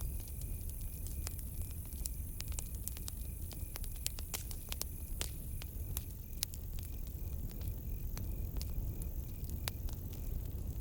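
Wood campfire crackling, with frequent sharp pops over a steady low rumble of the flames. A cricket chirps in a steady pulse of about four chirps a second at the start, stops for a few seconds, then starts again.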